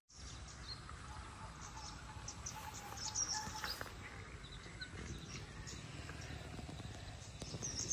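Outdoor rural ambience: birds chirping now and then, short high calls scattered throughout, over a low steady rumble.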